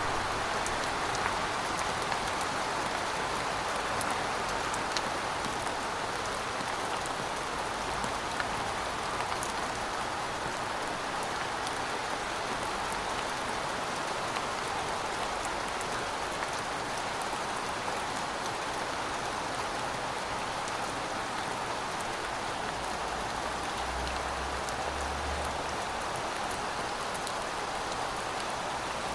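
Heavy rain falling steadily, a dense even hiss with the fine patter of individual drops striking a surface.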